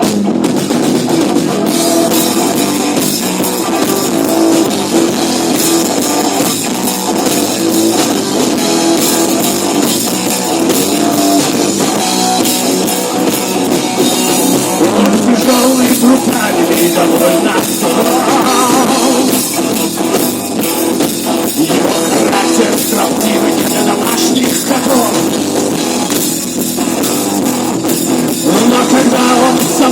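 Rock music with electric guitar and a drum kit.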